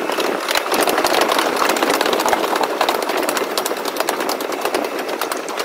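Passenger train running along a station platform, heard from an open coach door: a steady rumble thick with fast rattling and clatter from the wheels and coach bodywork.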